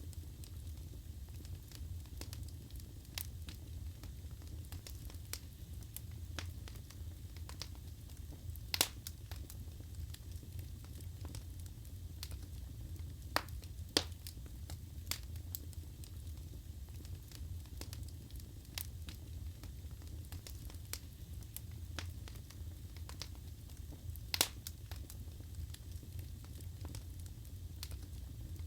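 Wood fire crackling in a fireplace: a steady low sound of burning under scattered sharp pops and snaps from the wood. The loudest pops come about 9, 14 and 24 seconds in.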